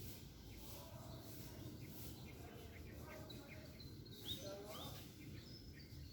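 Small birds chirping faintly over a steady low background rumble, with a few short rising chirps about four seconds in.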